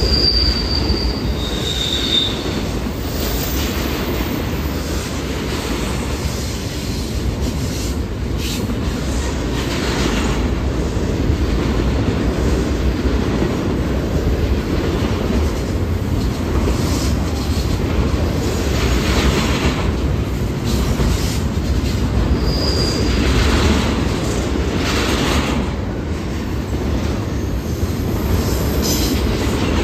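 BNSF double-stack intermodal freight train rolling past: a steady low rumble of steel wheels on rail. Brief high wheel squeals come near the start and again about two-thirds of the way through, with scattered short clatters from the passing cars.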